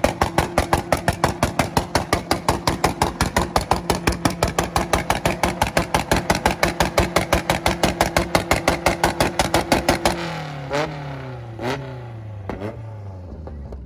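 Tuned car engine held on a two-step launch limiter, its exhaust banging and popping in a rapid, even rhythm over a steady drone. About ten seconds in it is let off, and the revs fall away with three last pops.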